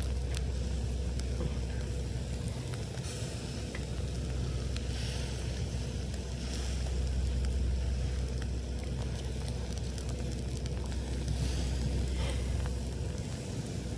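Wood campfire crackling and sizzling, with scattered small pops and hiss, over a steady low rumble.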